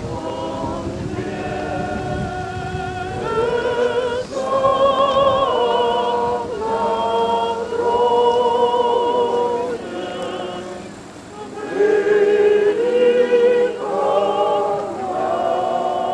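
A group of voices singing a slow song in long held notes, some with vibrato, with a brief pause about two-thirds of the way through.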